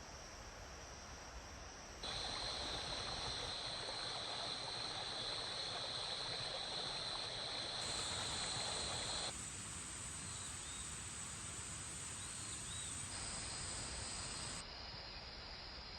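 Forest ambience: a steady rushing hiss with a continuous high insect trill over it. The mix changes abruptly several times, growing louder about two seconds in and thinner near the end.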